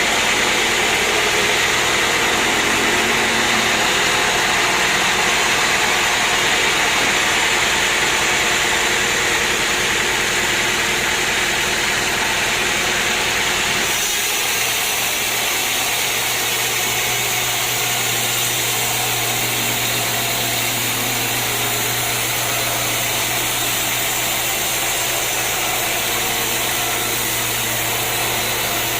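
Sawmill machinery running steadily with a loud, even noise. About halfway through the sound changes abruptly to a steadier running with a low hum.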